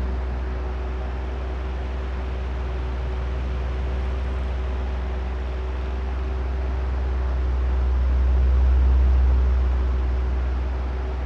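Oscillating electric fan running: a steady low motor hum with a rush of moving air, the whole sound swelling and fading slowly as the head turns back and forth, loudest about nine seconds in.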